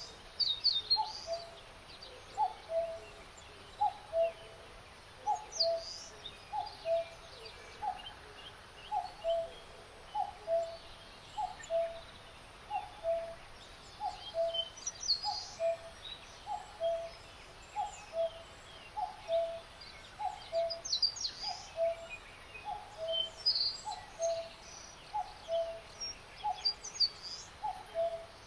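Spring forest birdsong: a low two-note call, a short higher note followed by a longer lower one, repeats evenly about every second and a bit, while small birds chirp and trill higher up.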